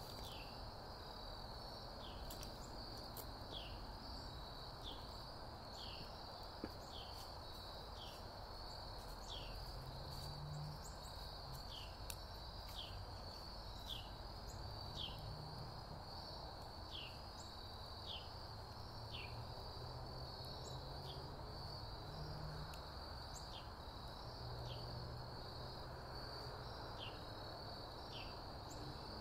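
Wood fire crackling in a stone fire pit, with scattered sharp pops, over a steady outdoor chorus of insects. A short falling chirp repeats about once a second throughout.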